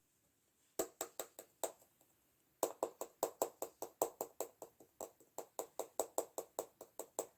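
Mermaid-powder slime being pressed and worked by hand, giving off a quick series of sharp clicks and pops. A short burst of five comes first, then a brief pause, then a steady run of about four to five clicks a second.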